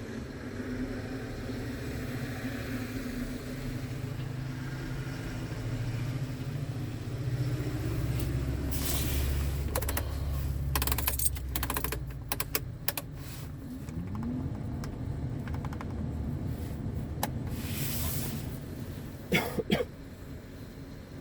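Scania R tractor unit's diesel engine running, its sound swelling about eight seconds in. Short hisses and clicks come around the middle, and two sharp clicks near the end.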